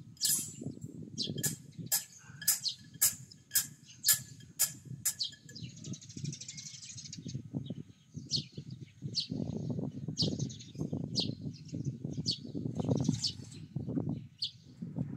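A bird chirping over and over in short, high, downward-sweeping chirps, about two a second at first and more scattered after about five seconds, over a low, uneven rumble.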